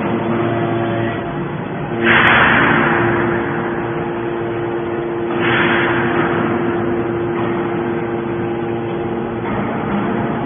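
Hydraulic metal scrap baler running: a steady hum from its motor and pump, with two louder bursts of rushing, crunching noise, about two seconds and five and a half seconds in, each fading over a second or so.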